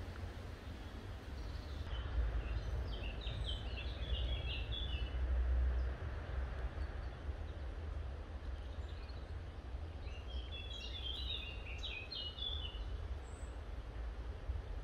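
Birds singing in two bouts of quick high chirps, the first a couple of seconds in and the second about ten seconds in, over a steady low rumble.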